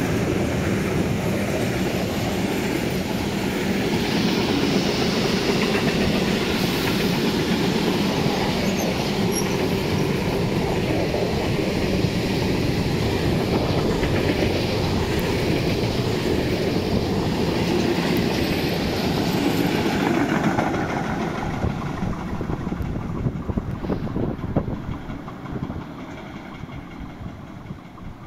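Freight train wagons loaded with timber, then empty stake wagons, rolling past on the rails with a steady heavy rumble of wheels. After about twenty seconds the sound fades as the train moves away, with a few separate wheel clacks over the rail joints near the end.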